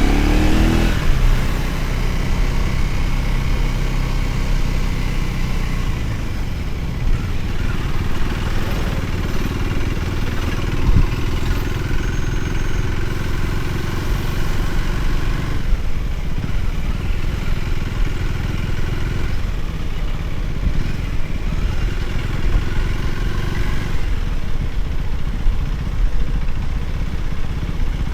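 Motorcycle engine running while riding, with a low rumble under it; the revs climb right at the start and the engine pitch shifts several times after that.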